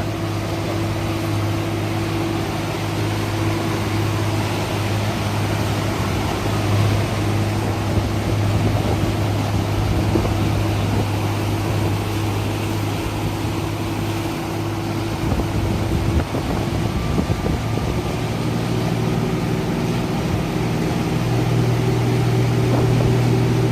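Motorboat engine running steadily with a low hum, over wind and water noise. The engine note gets a little louder near the end.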